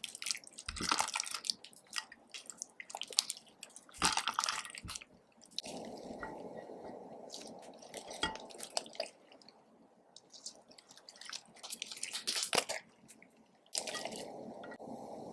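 Glue slime being stirred and squished, with sticky wet clicks and squelches. A steady hiss sits under it for a few seconds in the middle and again near the end.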